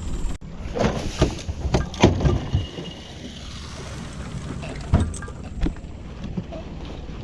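Several sharp knocks and thumps aboard a small river boat over a steady low rumble, the clearest about one to two seconds in and again about five seconds in.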